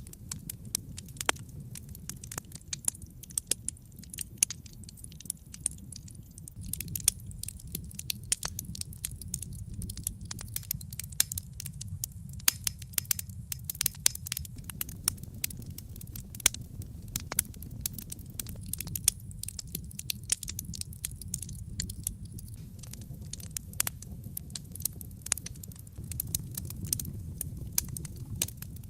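Wood fire in a fireplace burning steadily with a low rumble and many irregular sharp crackles and pops.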